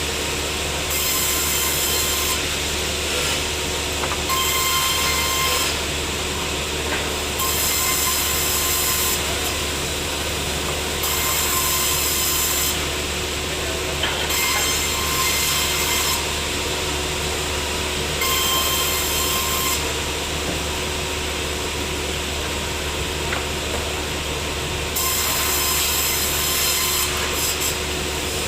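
Sawmill saw running and cutting a teak log: a steady machine noise with a low hum and a thin whine, and a high hiss that comes and goes every second or two.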